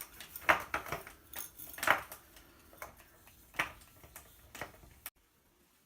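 A scattering of light clinks and taps from handling and wiping a ceiling fan's light fixtures with a wet rag.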